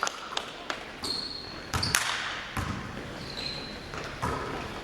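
Basketball game play on a gym floor: a ball bouncing in irregular thuds, with brief high squeaks of sneakers on the court.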